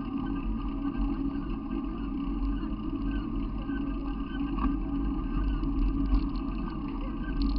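Steady low rumble of a running vehicle, unbroken throughout.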